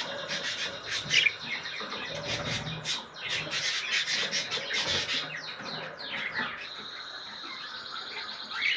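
Several cage birds chirping and squawking in short repeated calls, with scraping and rustling.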